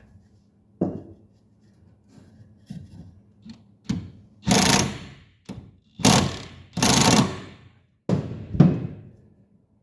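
Cordless DeWalt impact wrench with a 19 mm socket hammering in several short bursts on a tight mower-deck blade bolt that won't come loose, after a few lighter knocks early on.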